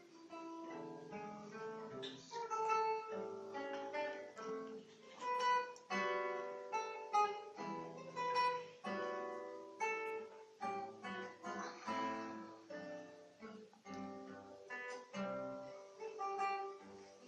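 Solo classical guitar playing a slow piece, single plucked notes and chords ringing out one after another.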